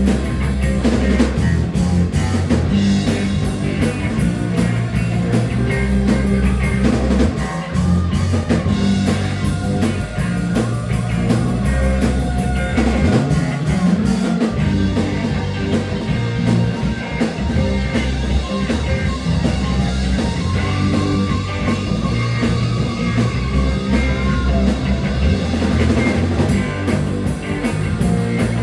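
Rock music played loud and continuous: electric guitar over bass and drum kit, with no words.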